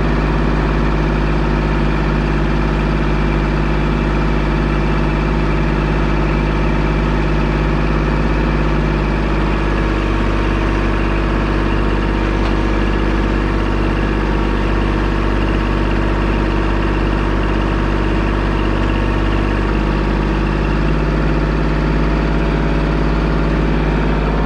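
Vehicle engine running steadily, a constant low drone that holds one pitch throughout.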